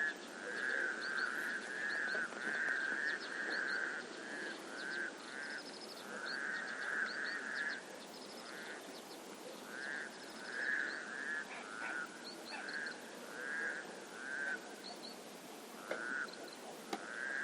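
Frogs croaking in a chorus, with repeated calls in short runs and brief pauses between them, while small birds chirp briefly and higher above them.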